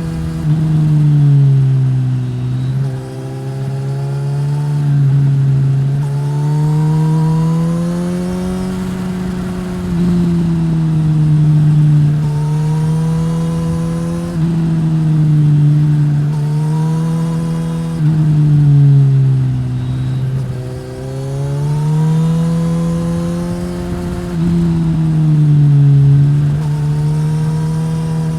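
2015 Suzuki GSX-S1000 inline-four running through a Yoshimura R-11 slip-on exhaust, revving up and easing off again and again. Its pitch climbs for a few seconds, then drops back sharply, about every four seconds.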